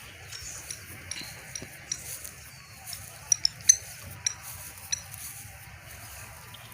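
Birds calling: a scatter of short, sharp, high chirps, with a quick cluster of louder ones around the middle, over a low steady background.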